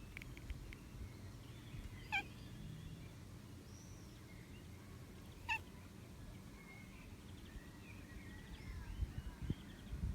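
A bird making short, funny calls, two of them about three seconds apart, with faint chirps and twitters in between.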